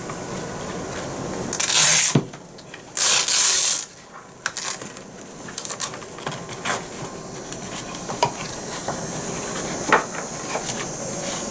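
Bee vacuum box being unfastened and handled: two loud scraping, rasping bursts in the first four seconds, then scattered clicks and knocks.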